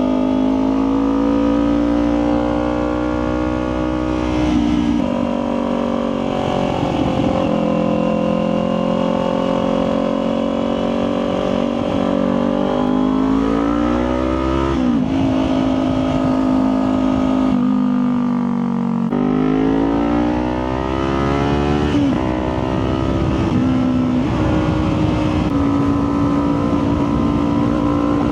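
Motorcycle engine running under way at steady revs, with wind rumble on the microphone. About halfway through, the engine note climbs and then drops sharply at a gear change. It eases off briefly and then climbs again.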